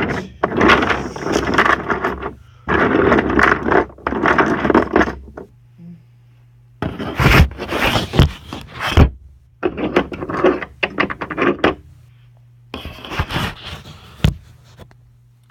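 Wooden toy train engine and trucks scraping and rattling along wooden track in several long pushes, broken by sharp knocks as the trucks crash and tumble together.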